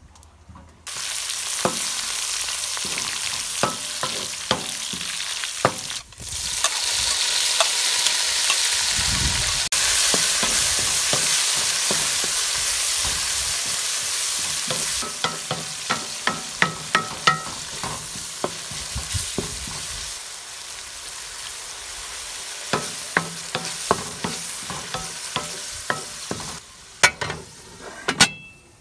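Tomato-and-onion masala sizzling in oil in an aluminium pan on a wood stove, stirred with a wooden spatula; the sizzling starts suddenly about a second in, and from the middle on the spatula's scrapes and knocks on the pan come as a run of sharp clicks. Near the end, a few clinks as an aluminium lid is set on the pan.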